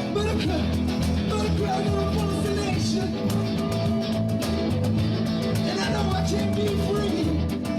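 Live rock band playing an instrumental break: guitar lead over bass and drums with a steady beat.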